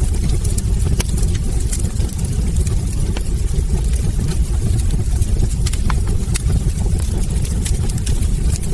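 Wood fire burning in a fireplace: a steady low rumble from the flames with frequent, irregular sharp crackles and pops from the logs.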